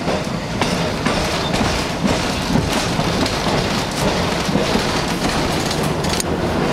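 A moving passenger railcar heard from inside: a steady rumble of wheels on track, with irregular clicks as the wheels pass over rail joints.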